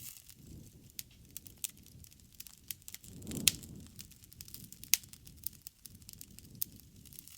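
Wood fire crackling: irregular sharp pops and snaps over a soft low rumble of burning, with one loud snap and a swell of flame sound about three and a half seconds in.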